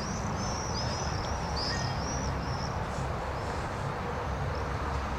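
Small birds chirping: quick, high-pitched chirps come thick and fast for the first half and then thin out. A steady low rumble of background noise runs underneath.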